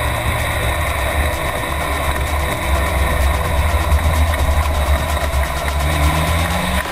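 Race car engine running, heard from inside the cockpit; its pitch climbs near the end as the revs rise.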